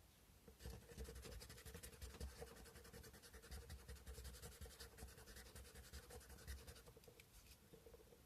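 Sandpaper rubbing on a carved cow-bone fish hook in quick back-and-forth strokes, faint and scratchy. It starts about half a second in and stops near the end.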